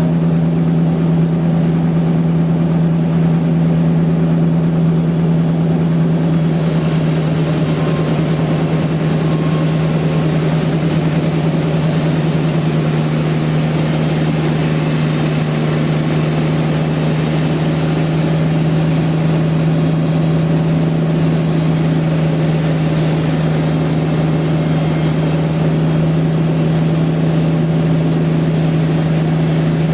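Sawmill machinery running with a steady, unchanging low hum. A hiss in the higher range joins about six seconds in and holds to the end.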